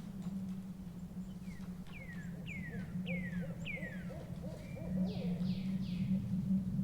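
An owl hooting low and steadily, with a small bird calling over it: four quick descending whistles about half a second apart, then three broader falling notes about five seconds in.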